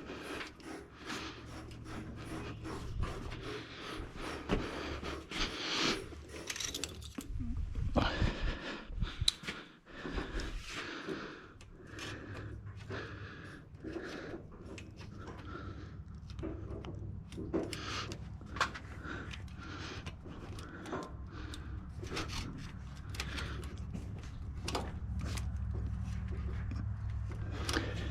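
Hand tools and metal parts clicking, clinking and scraping in irregular knocks during turbo removal work, with a few heavier knocks around the 8 to 10 second mark. A low steady hum comes in about eleven seconds in.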